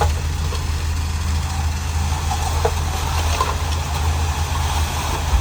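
Diesel engine of heavy earthmoving equipment running steadily at low revs, a constant low hum.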